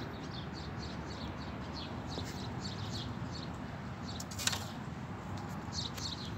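Small birds chirping, a quick run of short, high, falling notes, over a steady low background rumble. A single sharp click comes about four and a half seconds in.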